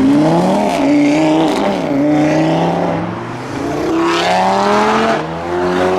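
A car engine accelerating hard. Its pitch climbs, drops at a gear change, then climbs again.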